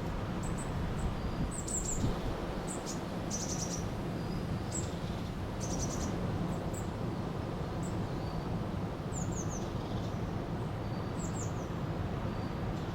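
A river's water running steadily, with small birds giving short high chirps and quick falling notes scattered through it.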